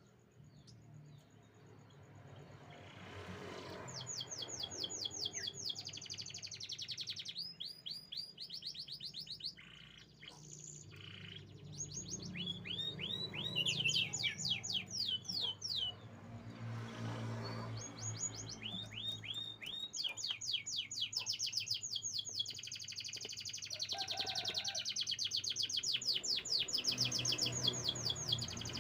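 Canary singing: long rolling trills of rapidly repeated high notes, starting a few seconds in, in phrases broken by short pauses.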